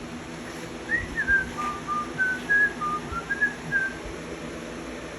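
A person whistling a short tune of about ten notes for about three seconds, over a steady low hum.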